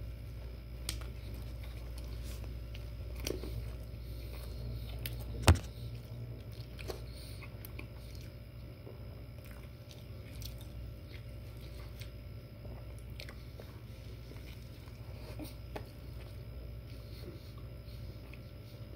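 A person biting into and chewing a breakfast sandwich, with a few faint clicks and one sharp click about five and a half seconds in. A steady low hum runs underneath.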